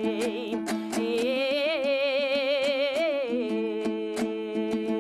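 A singer holding a long wavering vowel between verses of a Kazakh terme over a steadily strummed dombra. The voice fades out about three seconds in, leaving the dombra strumming on.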